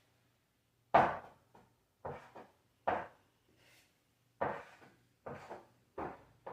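A run of sharp knocks at uneven intervals, about seven in six seconds, the first the loudest, each dying away quickly.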